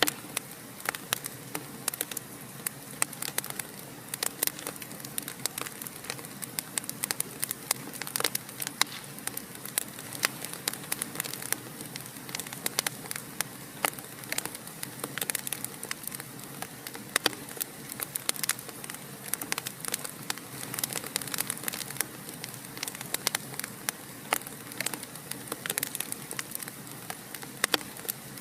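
Fireplace fire crackling: a steady stream of irregular sharp pops and snaps over a soft even hiss.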